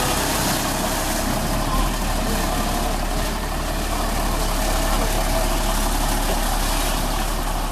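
Dongfeng dust-suppression truck's engine running steadily, with a steady rushing noise over it.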